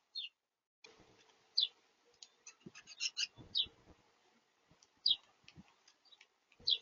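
Small bird at a feeder giving short, downward-sliding chirps every second or two, with scattered light taps and clicks between them.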